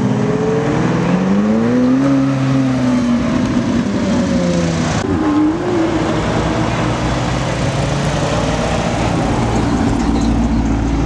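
Car engine accelerating, its pitch rising over the first two seconds and then falling away, with a short wavering rev about five seconds in, then a steady low engine note.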